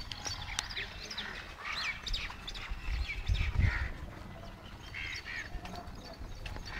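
Several birds chirping and calling in short, quick sweeping notes, with a low rumble about halfway through.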